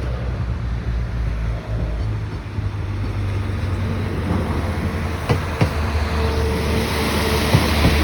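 Class 197 diesel multiple unit running with a steady low diesel rumble. From about five seconds in come a few sharp clicks, a rising hiss and a steady whine.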